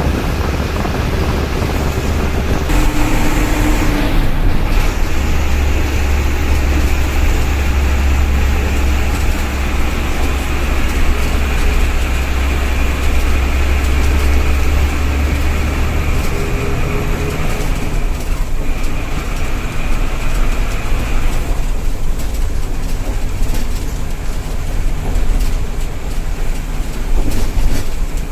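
Tata bus engine and road noise heard from inside the cabin, a steady heavy rumble.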